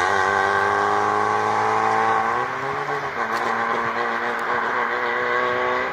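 Tofaş Şahin car with a Konya-style modified exhaust, its engine note droning. The pitch drops at the start and again about two and a half seconds in, then holds steady.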